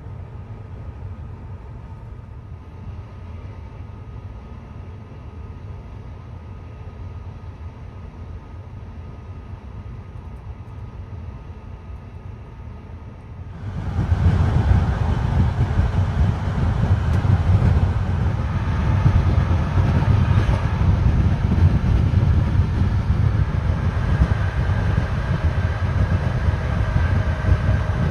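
Passenger train running along the track: a steady low rumble that turns suddenly much louder and harsher about halfway through.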